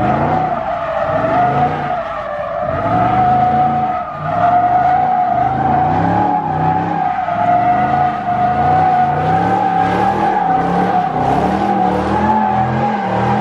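Car tyres squealing steadily as they spin. Underneath, the engine's revs rise and fall about once a second.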